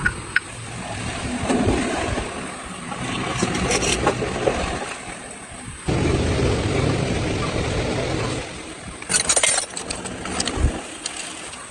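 Engine of a restored 1980 200cc off-road motorcycle running, its sound rising and falling, with a few sharp clicks near the end.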